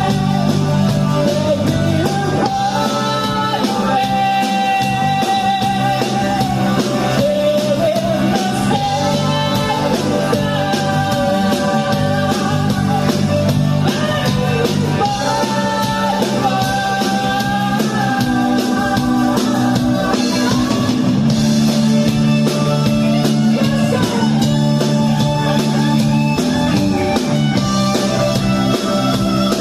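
Rock band playing a song with a sung melody over guitar, bass and drums.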